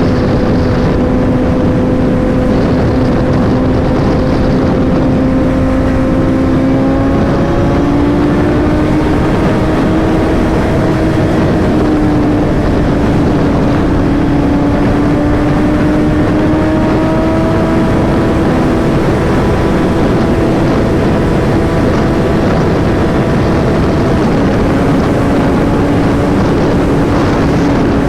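Motorcycle engine running at a steady cruising speed, its pitch rising slightly about eight seconds in and then holding steady.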